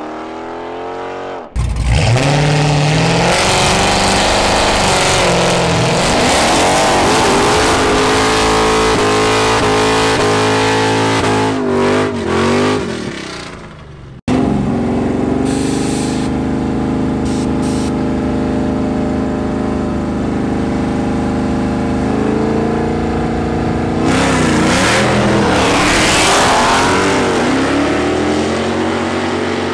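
Street-race muscle cars' engines running loud at high revs, the revs sweeping up and down as they accelerate hard. About 14 s in the sound cuts sharply to a steadier, deep engine rumble, and revs climb again near the end as cars pull away.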